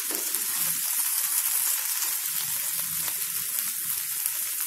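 Masala-coated okra (bhindi) frying in a little oil in an uncovered kadai, with a steady sizzle, while a spatula stirs and turns the pieces.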